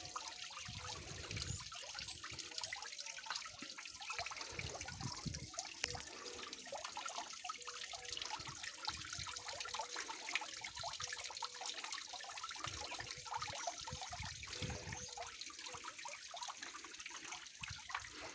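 Small waterfall: water splashing and trickling steadily.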